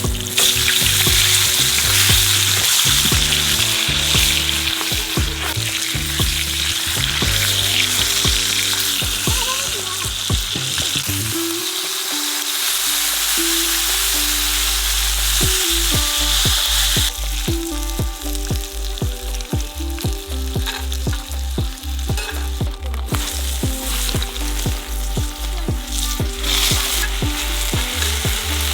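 Food frying and sizzling. The sizzle is strong for the first half, drops back about two-thirds of the way in, and picks up again near the end. Background music with a bass line plays underneath.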